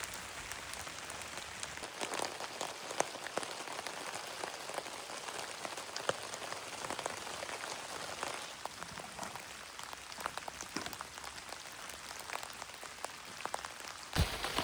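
Steady rain falling, with many individual drops heard as small sharp taps.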